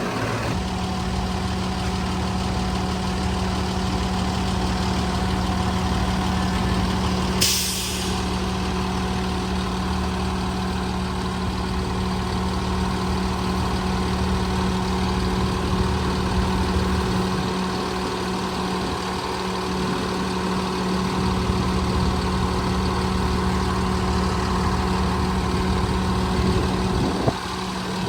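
Hose reel rewind motor on a jet fuel truck running with a steady hum as it reels the fuel hose back in, over the truck's idling engine. There is a short hiss of air about seven seconds in, and the reel stops with a click near the end.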